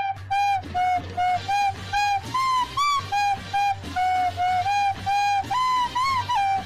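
A flute-like tune of short, quick notes, about three a second, rising and falling in a bouncy line. It cuts off suddenly at the end.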